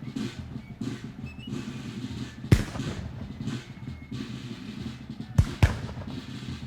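Battlefield gunfire: a steady low rumble of distant fighting with three sharp gunshots, one about two and a half seconds in and two in quick succession a few seconds later.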